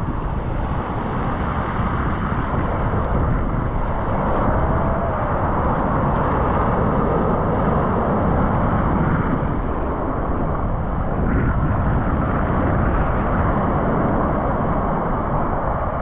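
A steady rush of wind on the microphone mixed with the wash of sea surf at the shore.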